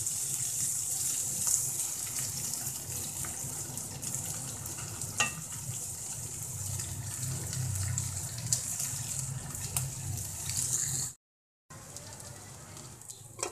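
Stuffed okra sizzling as it fries in oil in a nonstick pan, with a few knocks of the wooden spatula against the pan as it is stirred. About 11 seconds in the sound cuts off for a moment, then a quieter sizzle comes from the pan with its lid on.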